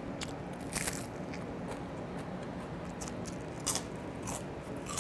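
A person biting into and chewing a morsel wrapped in a crisp seaweed sheet. Close up there are several short, crisp crunches, about five, spread through the chewing.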